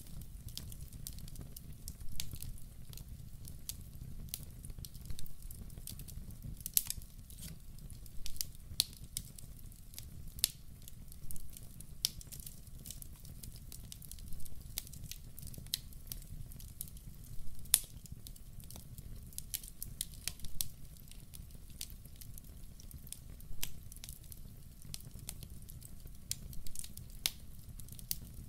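Log fire burning in a fireplace: a steady low rumble of flame with frequent irregular crackles and sharp pops.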